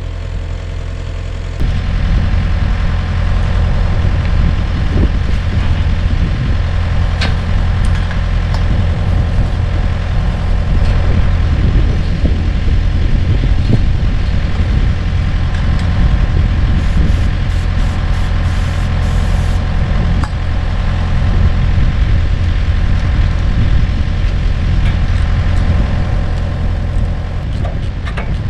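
Komatsu mini excavator's diesel engine running steadily, growing louder about a second and a half in and holding there as the machine works, with a few sharp knocks along the way.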